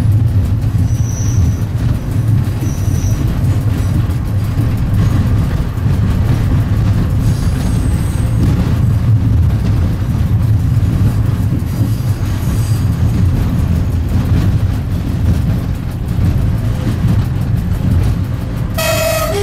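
Steady low rumble of a train running along the track, heard from the driver's cab. Near the end the train's horn starts to sound.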